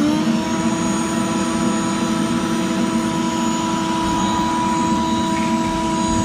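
CNC router spindle fitted with a 1/8 inch end mill finishing its spin-up within the first half second, then running at steady speed with a constant whine.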